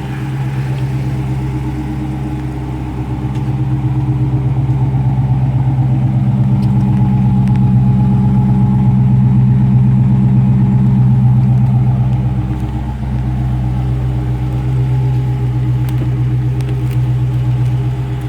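2016 Dodge Charger Scat Pack's 6.4-litre HEMI V8 idling with a steady, even rumble that grows louder through the middle stretch and eases off again.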